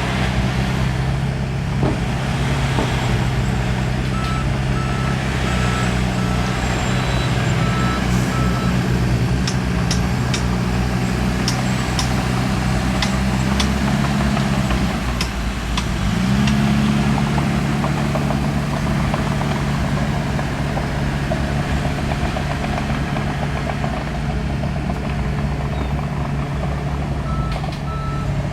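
Heavy diesel engine of earthmoving equipment running steadily under load, easing off briefly about halfway through and picking up again. A reversing alarm beeps from about four seconds in for several seconds and again near the end, and a few sharp knocks come in the middle.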